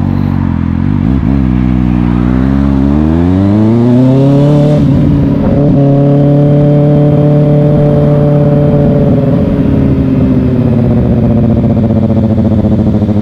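Kawasaki ZX-6R's inline-four engine accelerating, its pitch rising for about two seconds, then holding a steady cruise.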